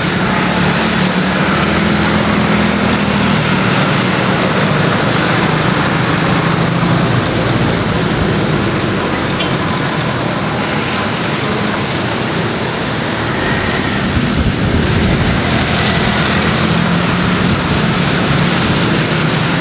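Steady, loud vehicle rumble with a low hum underneath.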